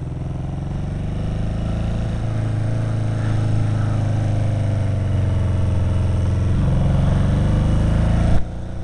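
Kawasaki KZ750 motorcycle engine running as the bike is ridden, the note growing gradually louder, with changes in pitch about two and six and a half seconds in. It drops off suddenly near the end.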